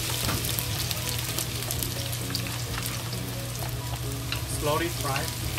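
Scallion, ginger and star anise frying in hot vegetable oil in a wok: a steady sizzle full of fine crackles, with a wooden spatula stirring.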